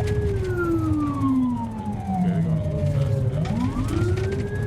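Police car siren in wail mode: one slow downward sweep lasting about three seconds, then a rise again near the end, over the low rumble of the car's engine and road noise during a pursuit.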